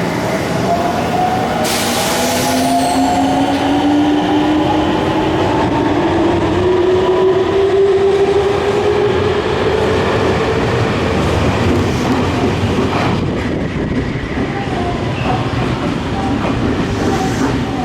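Nankai electric train pulling out and accelerating, its traction motors giving a whine that climbs in pitch over the first ten seconds or so. Under the whine run the steady rumble and clatter of the wheels on the rails.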